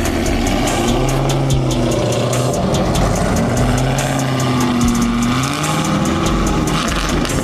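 A car engine running, its pitch slowly rising and falling as it is revved and eased off, with regular ticking or beat-like clicks over it.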